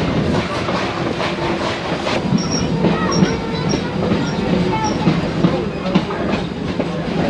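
Steam-hauled train running, heard from the open car just behind the locomotive's tender: a steady rumble with clattering wheels over the rail joints, and a few brief high squeaks from the wheels in the middle.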